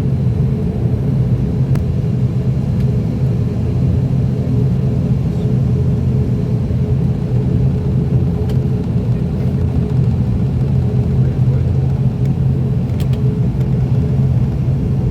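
Steady cabin drone of an ATR 42-600's turboprop engines and propellers, a loud, even low hum with a few faint ticks.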